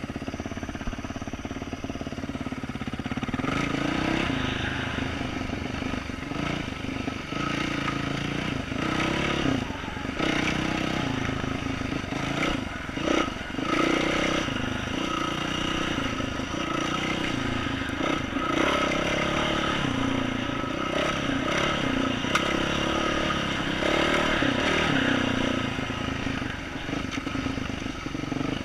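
2012 Yamaha YZ450F single-cylinder four-stroke dirt bike engine with an aftermarket exhaust, running steadily at low revs for the first few seconds, then revving up and down again and again as the throttle is worked. A few sharp knocks come through midway.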